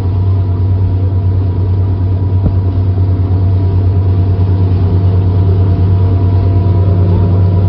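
Speedboat engine running at a steady speed while the boat is underway, a constant low drone.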